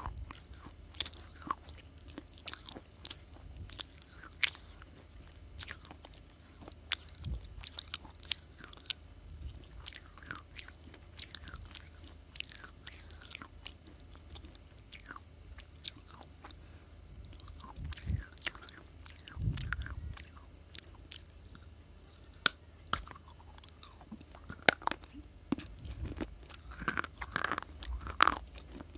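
Close-up biting and chewing of crunchy baked clay, perhaps noodle-shaped: sharp, irregular crackles and snaps, thicker in places as mouthfuls are crunched.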